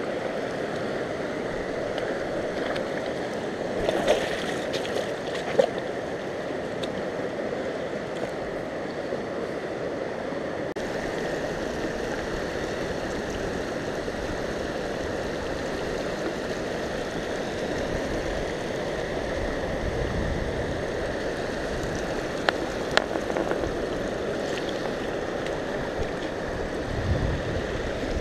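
Yuba River water rushing steadily, with a few brief sharp clicks, twice near the start and twice in the second half.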